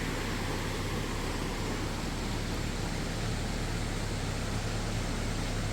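Steady rushing of river water, an even noise with a low rumble underneath.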